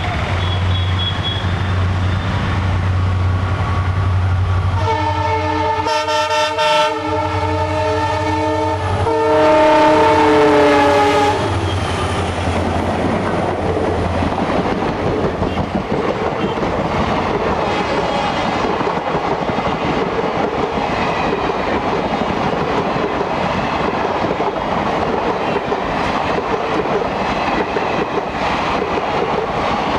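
Diesel locomotives of an Indian Railways train, EMD WDG4 twins leading, running past with a steady low engine drone while the multi-tone horn blows for about six seconds, starting about five seconds in. After about twelve seconds the coaches roll by with a continuous clatter of wheels over the rails.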